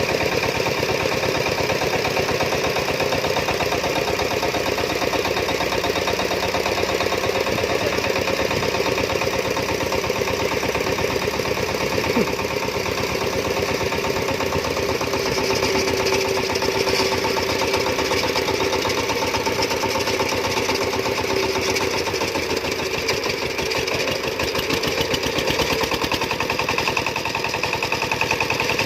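Diesel engine running steadily, with a fast, even beat.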